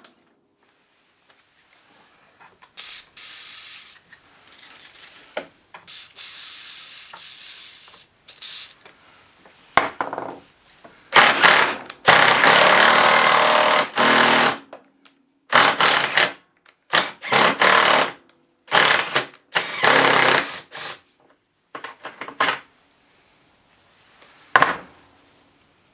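Power tool run in repeated short bursts with a hammering rattle, typical of an impact driver undoing fasteners during an ATV strip-down; bursts last from about half a second to two seconds, the longest about halfway through.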